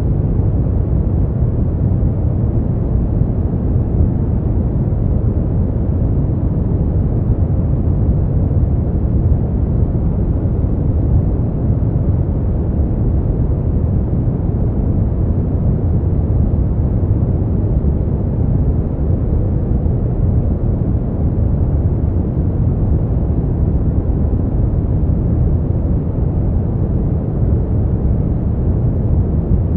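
Brown noise: a steady, deep rushing hiss, strongest in the bass and fading out toward the treble, with no change in level.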